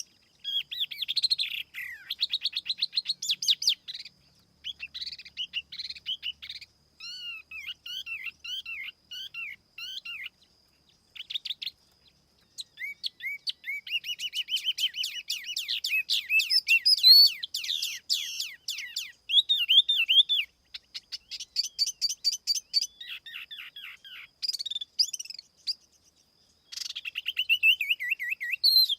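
Tiểu mi songbird singing as a lure call: rapid, varied chirps, whistled phrases and trills in bursts, with a couple of brief pauses.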